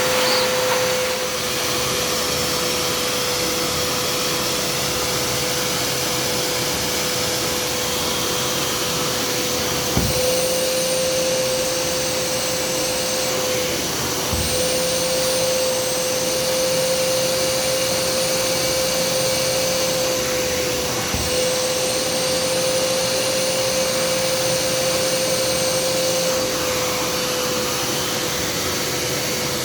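Kärcher SE 4001 spray-extraction carpet cleaner running with suction on, a steady motor whine over a rush of air. Its pitch rises slightly three times, at about 10, 14 and 21 seconds in, each time with a small knock.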